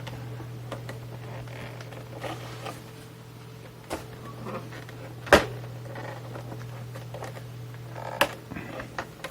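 Small clicks and knocks of parts being handled and worked loose inside an opened Tascam Portastudio 414 MKII cassette recorder, with a sharp click about five seconds in and another about eight seconds in, over a steady low hum.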